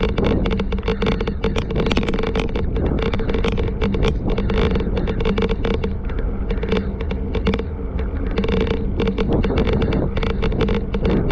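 Strong wind buffeting the microphone, with irregular gusts and a heavy low rumble over a steady hum.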